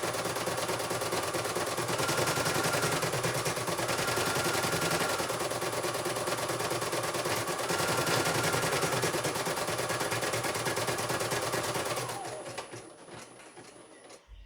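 CNY computerized embroidery machine stitching on a test run: a fast, steady needle clatter, with a higher tone coming and going several times. About twelve seconds in it winds down with a falling whine and stops. It runs fairly smoothly.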